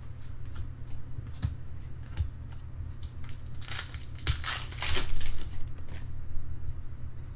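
Foil baseball card pack wrapper crinkling and tearing, with a cluster of rustles about four to five seconds in, over a steady low hum.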